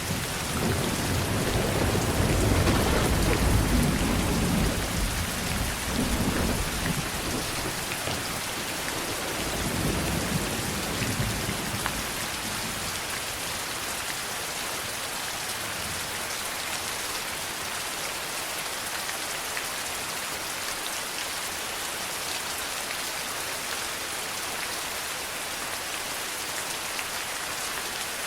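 Steady heavy rain falling, with a long roll of thunder that starts right away, is loudest a few seconds in, rumbles on in waves and dies away about twelve seconds in. The rain alone carries on after it.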